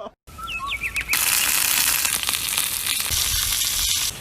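A brief drop-out, then a few short high chirping sounds. About a second in, a steady loud hiss starts and runs for about three seconds.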